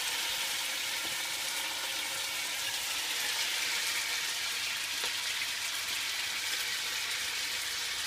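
Diced chicken breast sizzling as it fries in hot olive oil, a steady hiss as the pieces go into the pan.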